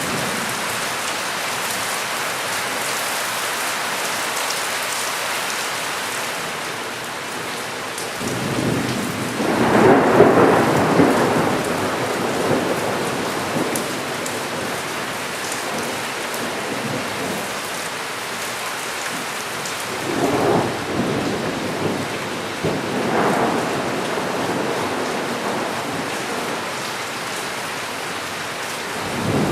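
Steady rain falling during a thunderstorm, with rolling thunder: a long peal builds about a third of the way in and is the loudest part, and two shorter rumbles come later.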